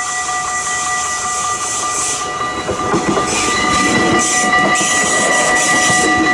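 Arriva Stadler GTW passenger train passing close over a level crossing, its wheels clattering and its running noise growing louder from about two and a half seconds in. The crossing's warning bell rings as a steady high tone throughout.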